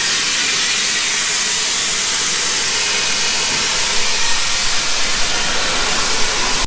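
A loud, steady hiss, strongest in the high pitches, with no rhythm or change in pitch.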